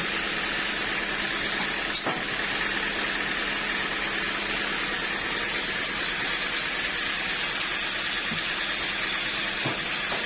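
Sawmill machinery running steadily: a continuous mechanical hiss with a steady hum and a higher whine, and a single sharp click about two seconds in.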